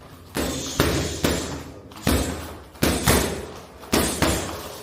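A series of about eight sharp thuds at uneven intervals, some in quick pairs, each dying away with a short echo.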